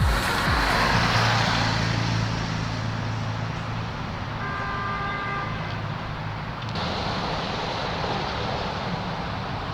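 Cars idling and moving in a parking area, a steady low engine hum under traffic noise, with a car horn sounding once for about a second around the middle.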